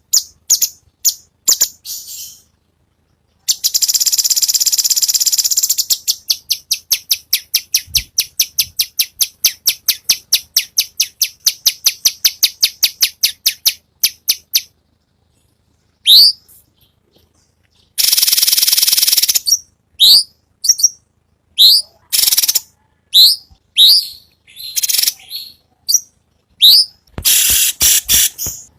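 Cucak cungkok song: harsh, raspy bursts and a long run of rapid repeated notes at about four a second, then a string of sharp, rising whistled notes, each about a second apart.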